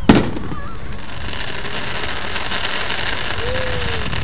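An aerial firework shell bursting with one sharp boom just after the start, followed by a dense, fizzing crackle of many small pops that carries on for the next few seconds.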